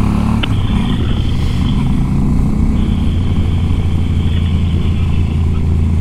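Suzuki DL650 V-Strom's V-twin engine running steadily under way, heard from the rider's seat over wind and road noise.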